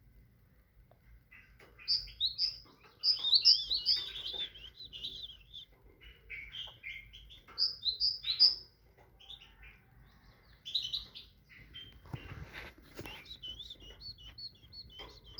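Great tit singing: bright, repeated two- and three-note phrases with quick twittering between them, in several short bouts separated by pauses. A brief rustling noise comes about three quarters of the way through.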